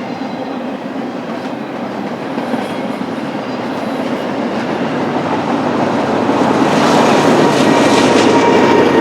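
Freight train cars rolling past on the rails, a dense rumble that grows steadily louder. Thin wheel squeal begins near the end.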